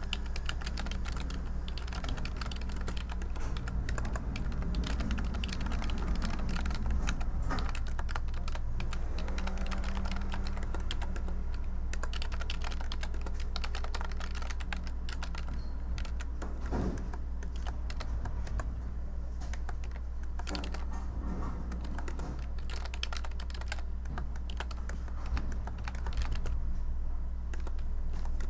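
Computer keyboard typing: a continuous, irregular run of key clicks over a steady low hum.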